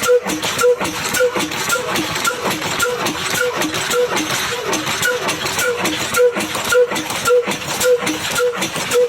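Old single-cylinder Ruston Hornsby diesel engine running and driving a chaff cutter, with an even rhythmic beat about twice a second and a steady clatter of sharp clicks.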